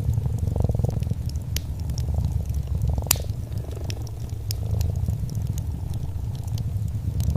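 A domestic cat purring steadily, the purr swelling and easing with each breath, over the scattered pops and crackles of a fireplace fire; one sharper pop about three seconds in.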